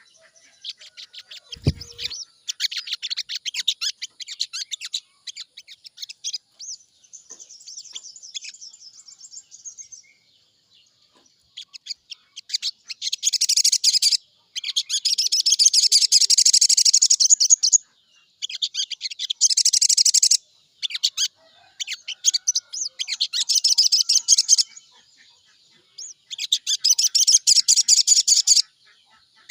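Sogon birdsong: high-pitched, rapid trilling phrases a few seconds long, repeated with short pauses and loudest in the middle stretch. A short low thump about two seconds in.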